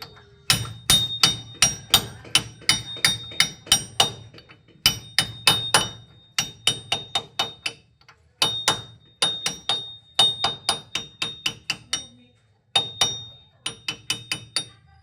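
Repeated hammer blows on metal, struck about three or four times a second in runs of several blows with short pauses between, each blow ringing briefly.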